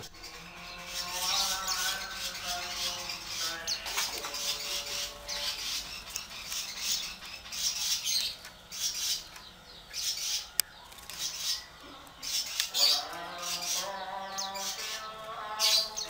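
A caged pet bird calling: short, harsh squawks and chirps, repeated again and again.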